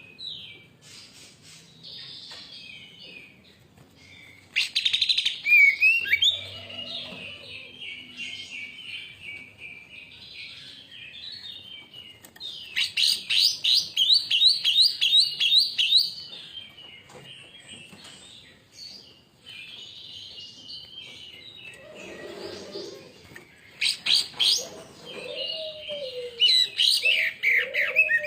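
Greater green leafbird (cucak ijo) in full, agitated song: fast chattering trills and whistles, in three loud bursts with quieter warbling between them. A second, lower-pitched wavering call comes in underneath in places.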